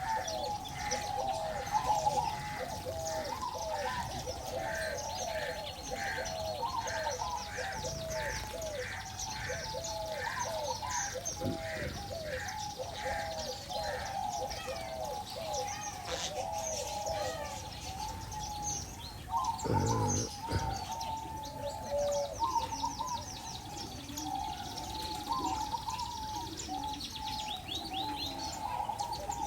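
Many caged birds calling at once: a fast series of repeated mid-pitched notes, about two a second, over high twittering chirps. A short louder rustle or knock comes about twenty seconds in.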